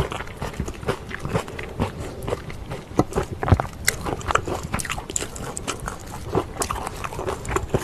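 Close-miked chewing of pork kimchi stew and rice, with irregular wet mouth sounds and sharp clicks of chopsticks and a spoon against a bowl.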